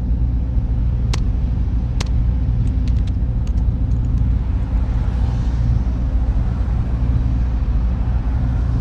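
Server-room ambience: a steady low machine rumble and hum. Two sharp clicks come about one and two seconds in, a few faint ticks follow, and a soft hiss swells up in the second half.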